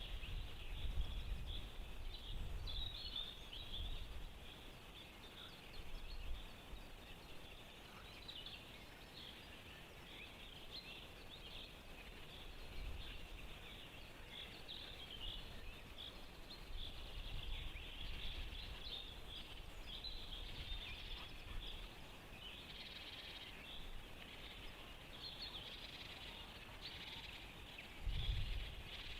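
Faint chorus of small songbirds, many short high chirps and trills overlapping without a break, with low gusts of wind rumbling on the microphone, strongest in the first few seconds and again near the end.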